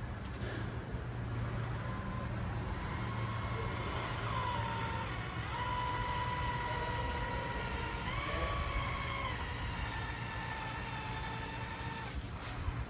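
A vehicle engine running with a steady low hum and a whine that shifts up and down in pitch several times.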